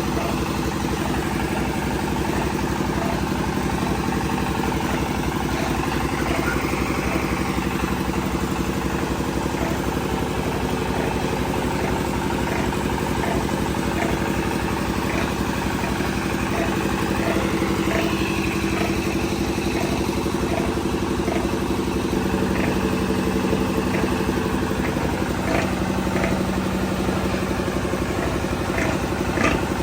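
A motor running steadily, with an even hum and a regular pulsing tick.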